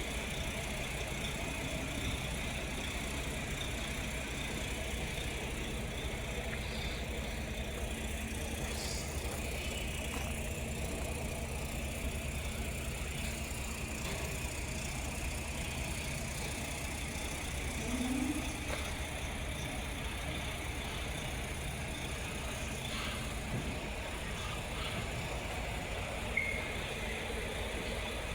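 Steady idling of a truck engine, a continuous low rumble, with a short high chirp near the end.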